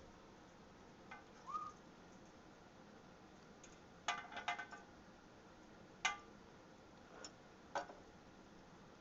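Parrot vocalising softly: a short rising whistle about a second and a half in, then a few brief calls and scattered sharp clicks.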